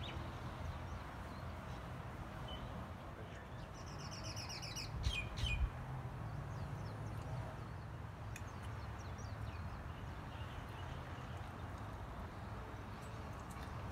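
Small birds chirping, with a rapid trilling call about four to five seconds in, over a steady low background rumble. There are a couple of low bumps about five seconds in.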